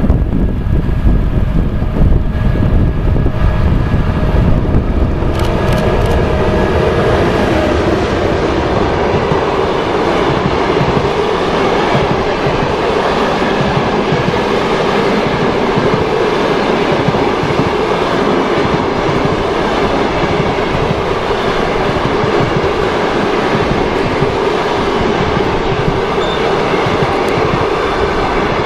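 Passenger train hauled by an EP1M electric locomotive rolling past, a loud steady rumble of wheels on rails with some clickety-clack. A few seconds in, the mixed sound of the locomotive and the wind gives way to the even rumble of the passing coaches.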